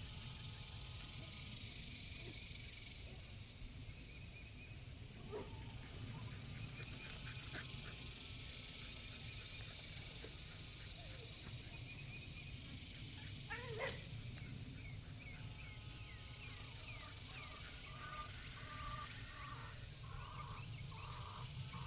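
Farmyard ambience: scattered animal calls and bird chirps over a steady low hum, with one louder rising call about two-thirds of the way through and a quick run of short calls near the end.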